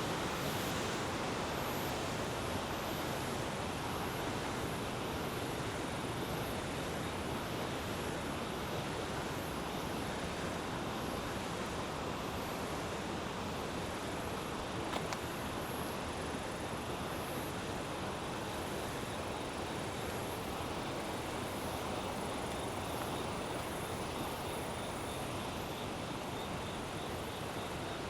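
Steady rushing of a river flowing past, with insects chirping high-pitched in an even, repeating rhythm over it.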